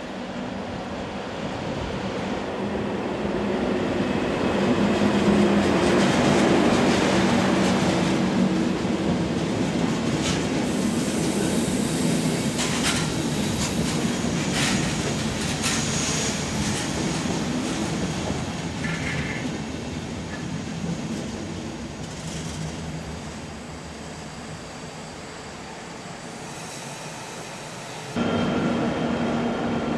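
DB class 120 electric locomotive hauling Intercity coaches past the platform, its traction equipment giving a steady low hum as it draws near. The coaches then roll by with clicks of the wheels over rail joints, and the sound fades. Near the end it cuts abruptly to a louder new train sound.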